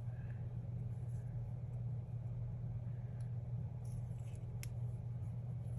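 Steady low background hum with a few faint, short clicks of handling.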